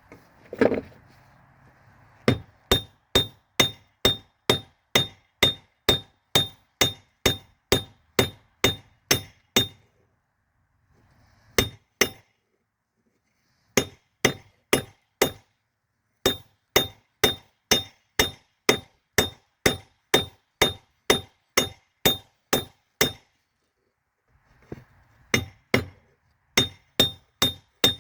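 Forging hammer striking a railroad spike on an anvil in steady blows, about two or three a second, each with a bright metallic ring. The blows come in several runs broken by short gaps.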